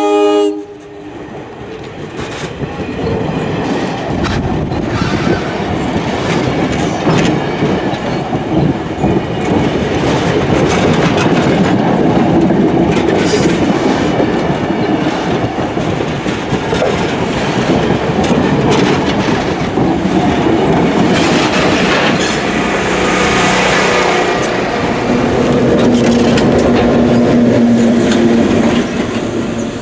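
The last half-second of a locomotive's RS3L air horn cuts off, then a diesel-hauled train of a GP38 and passenger cars runs steadily on the rails, wheels clicking over rail joints.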